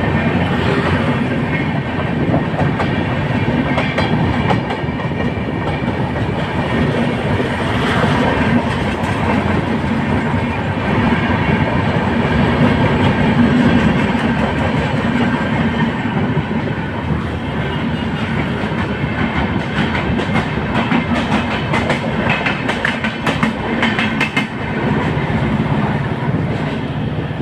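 Express train of LHB passenger coaches running fast on the track: a steady loud rumble with the wheels clattering over the rail joints.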